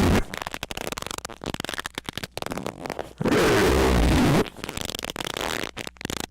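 Loud, distorted squeak with a pitch that bends, lasting about a second and coming about three seconds in, over a deep rumble. A quieter, rapid crackling and clicking fills the gaps before and after it.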